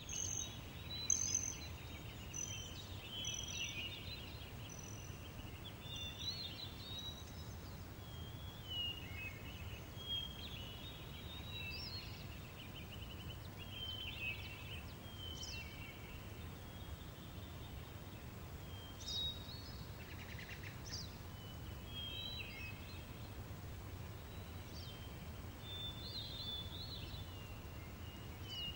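Outdoor nature ambience from a sound-effects library: several birds chirping and trilling in short, varied phrases over a steady low background rumble.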